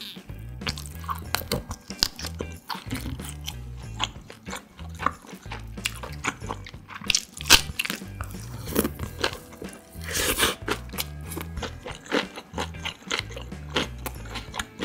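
Close-miked chewing and crunchy biting of fresh napa cabbage kimchi and grilled galbi beef ribs: wet mouth clicks throughout, with the loudest crunchy bites about seven and a half and ten seconds in.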